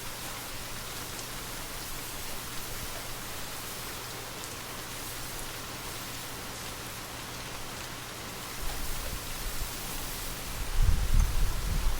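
Steady rain hiss, even and unbroken. A low rumble swells in about two-thirds of the way through and is loudest near the end.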